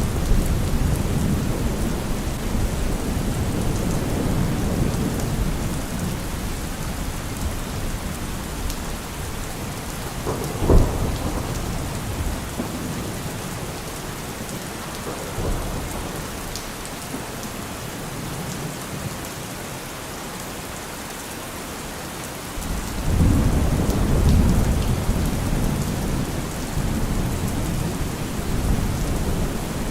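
Steady rain falling, with thunder. A low rumble fades over the first several seconds, a single sharp thunderclap comes about a third of the way in, and a new heavy rumble starts suddenly about three quarters of the way through and rolls on.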